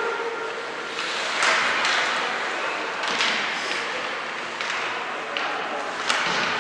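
Arena ambience during a youth ice game: indistinct crowd chatter echoing in a large hall, cut by several sharp knocks and clacks of sticks on ice and boards.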